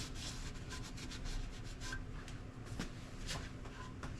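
Irregular rubbing and scraping strokes, several a second, over a faint steady hum.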